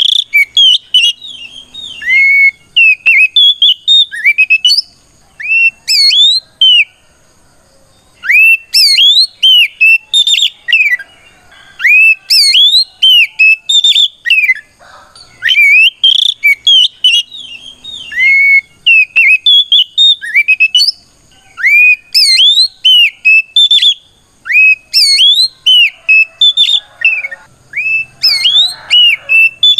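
Oriental magpie-robin (kacer) singing loud, clear whistled notes that slide up and down in quick phrases with short pauses between them. It is a fighting song, a male calling out a rival.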